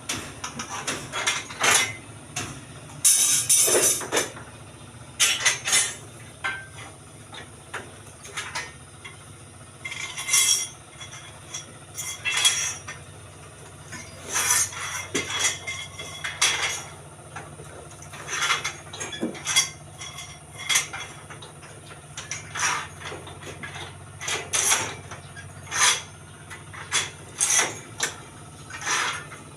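Irregular metallic clinks and clanks of steel rebar being handled and worked into stirrup rings, over a steady low hum.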